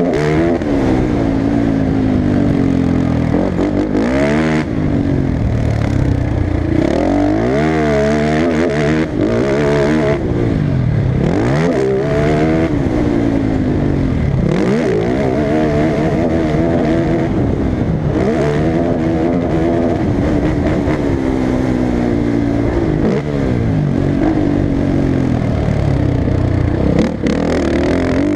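Off-road racing engine at full race pace, its pitch climbing and dropping back every couple of seconds as the throttle is opened and closed around the track.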